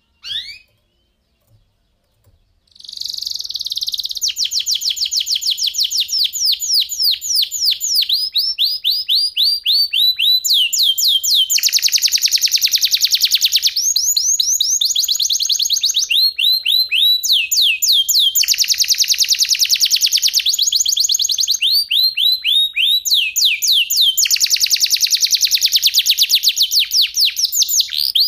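Domestic canary singing: a short call at the start, then from about three seconds in an unbroken song of rapid trills, each a fast run of repeated sweeping notes, switching from one trill to the next, with three harsher, buzzier stretches.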